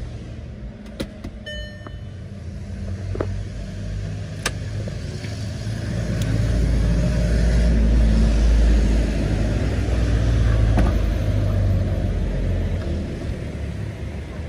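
Audi R8's 4.2 V8 engine running with a low rumble that swells louder over several seconds around the middle and then eases off. A few sharp clicks come in the first five seconds.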